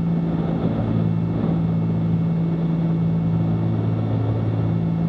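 Cessna 310Q's twin piston engines and propellers droning steadily in the cockpit at approach power, a constant low hum over a wash of engine and air noise.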